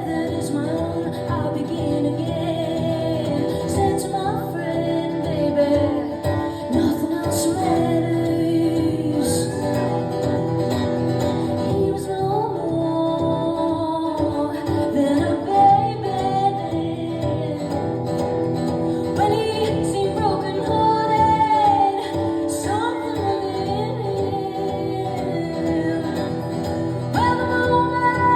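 Live music: a woman singing over guitar accompaniment.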